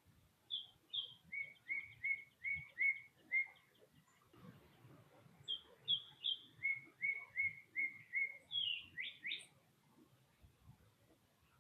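A songbird singing two bouts of clear whistled notes, each a run of repeated notes at about three a second alternating between a higher and a lower pitch, the second bout ending in a few quick down-slurred notes.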